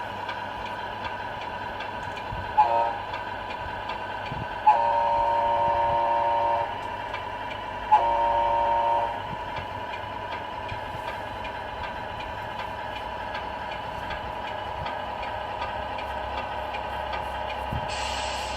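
RC Scania R470 truck's electronic sound module playing a steady diesel engine running sound, with three air-horn blasts: a short toot, then a longer blast of about two seconds, then one of about a second.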